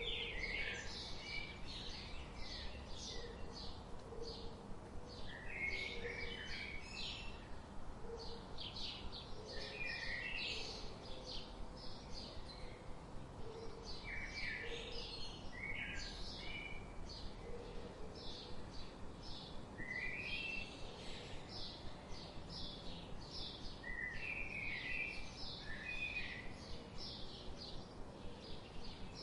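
A chorus of small songbirds chirping, with many short, quick chirps repeating throughout and lower call phrases breaking in every few seconds, over a steady background hiss.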